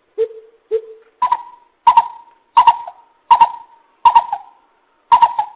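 Coucal (bìm bịp) decoy call: a series of deep hooting notes about every two-thirds of a second, the first two lower, the rest about twice as high. Each note starts with a sharp click.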